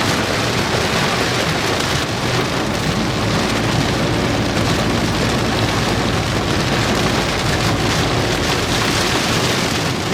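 Heavy rain pelting a moving vehicle, heard from inside the cabin as a loud, steady, dense hiss mixed with road noise.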